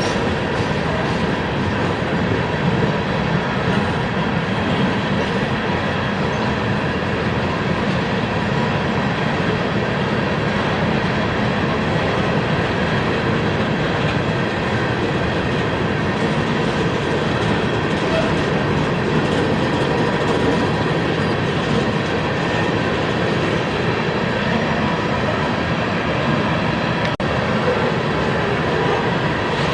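Freight train rolling steadily past on the rails, a continuous noise of wheels and cars that holds even for the whole stretch.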